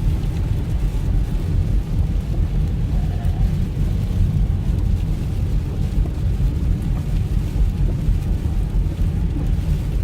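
Steady low rumble of a car driving, engine and road noise heard inside the cabin.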